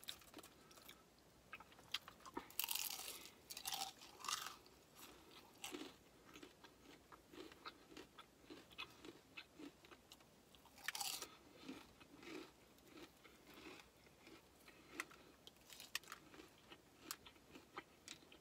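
Close-up mouth sounds of eating crispy fried chicken: a few crunchy bites near the start and again about eleven seconds in, with soft chewing about twice a second in between.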